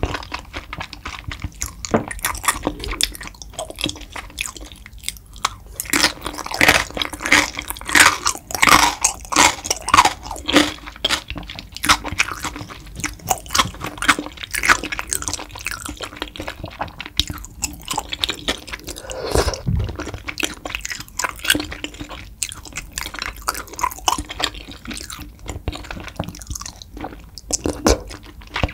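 Close-miked chewing of tteokbokki rice cakes with melted cheese: a steady run of wet, sticky mouth clicks and smacks, loudest for several seconds in the first half.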